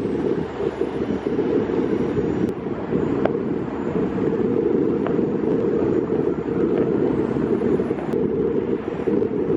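Wind buffeting the camera's microphone, a steady low rumble, with a few faint sharp pops of distant fireworks scattered through it.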